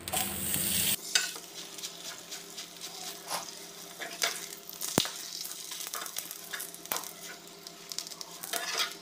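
Aloo paratha frying in ghee on a hot pan: a faint steady sizzle, with a steel spatula scraping and tapping against the pan as it lifts, spreads and presses the paratha, and one sharp click about five seconds in.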